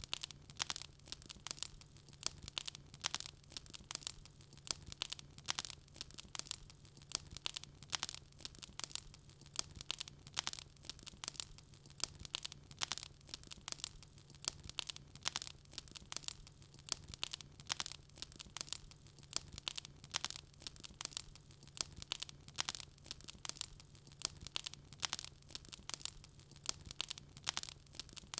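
Wood fire burning with dense, irregular crackling and popping, over a faint low hum.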